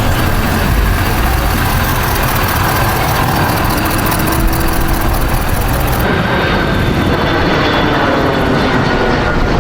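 Steady vehicle engine noise, with the higher hiss cutting away abruptly about six seconds in.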